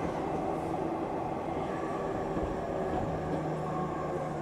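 Running sound of the E231-900 series motor car MoHa E231-901, with its Hitachi IGBT-VVVF inverter, heard from inside the car between stations: a steady rumble of wheels on rail and traction motors.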